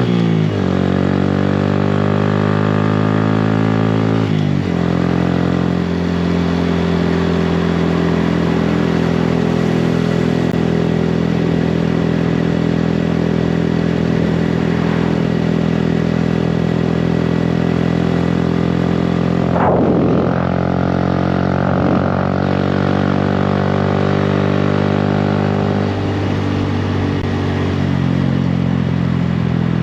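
2018 Honda Grom's single-cylinder engine running through a Yoshimura exhaust while riding. The engine pitch drops twice in the first five seconds, then holds mostly steady at cruising speed, with a brief change about twenty seconds in.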